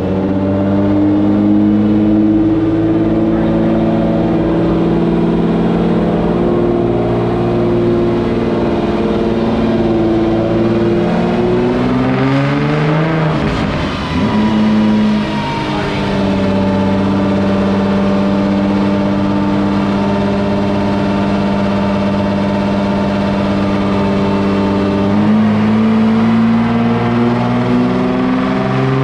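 Audi B5 S4 drift car's engine running under load on a chassis dyno, held at steady engine speeds that change in steps, dropping and climbing again about halfway through and stepping up near the end.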